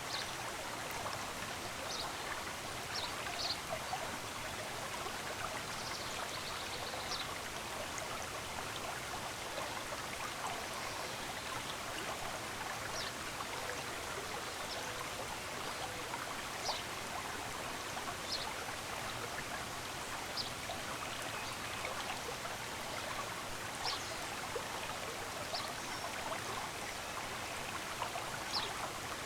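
Stream water running in a steady rush, with short high bird chirps every second or two over it.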